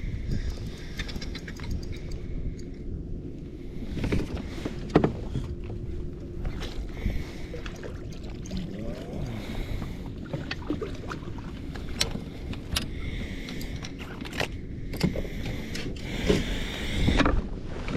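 Water sloshing against a fishing kayak's hull, over a steady low rumble, with scattered sharp knocks and clicks from gear on the boat.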